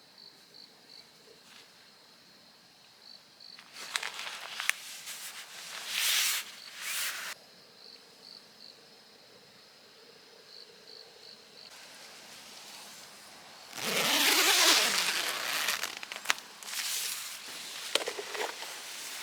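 Crickets chirping in short, evenly spaced high pulses. Closer rustling noises break in several times, the loudest and longest about two-thirds of the way through.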